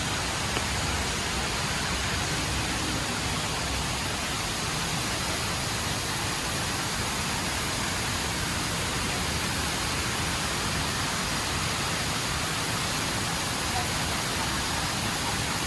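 Steady rushing of water from the HSBC Rain Vortex indoor waterfall, with people's voices blended into it.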